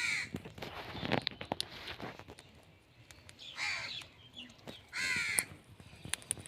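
A green parrot calling: three calls about half a second each, spaced a second or two apart, with scattered sharp clicks between them.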